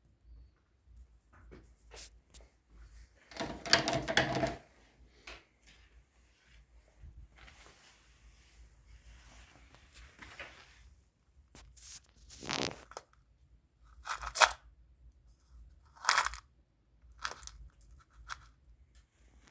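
Intermittent workshop handling noises: a longer scrape about four seconds in, then a few sharp clinks and knocks spaced a second or two apart in the second half, like tools and metal parts being moved and set down.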